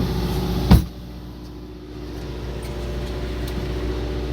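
Steady mechanical hum of a fishing boat's running machinery, with a single sharp knock a little under a second in; after the knock the hum is quieter and slowly builds back up.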